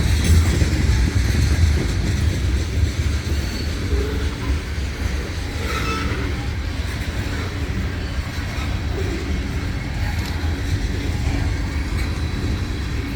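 Tank cars of a freight train rolling past, a steady low rumble of wheels on rail.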